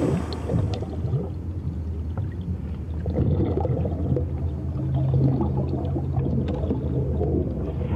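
Murky, underwater-like gurgling of water laid down as a low sound-design bed, with a steady low hum coming in about halfway through.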